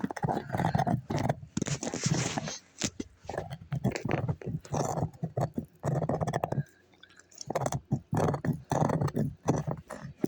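A dog chewing and crunching close to the microphone, in irregular bursts with short pauses.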